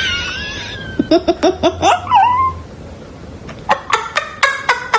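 A cat calling: a long wavering meow, then quick runs of short repeated calls with a falling cry between them.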